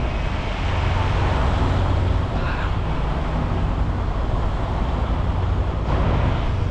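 Steady low hum of semi-truck diesel engines idling, with a wash of traffic noise.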